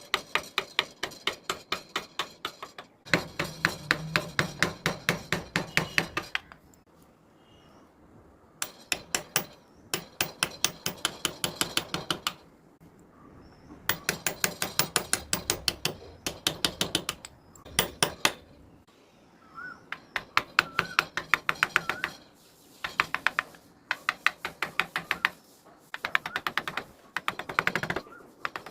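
A wood-carving chisel is tapped into teak in quick, sharp strokes, about four or five a second. The strokes come in runs of a few seconds with short pauses between them.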